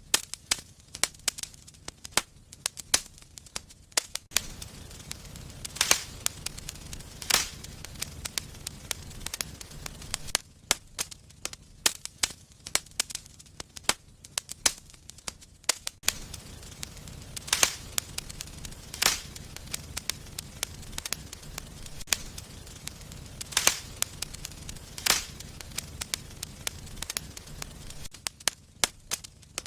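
Fire in a fireplace crackling steadily, with scattered sharp pops, several of them loud, over a faint low rumble of the flames that fades in and out.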